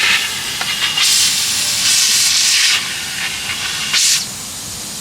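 High-pressure car wash spray wand hissing in spells, loud for a second or two at a time and then dropping back to a quieter hiss, as the water jet is turned on the car.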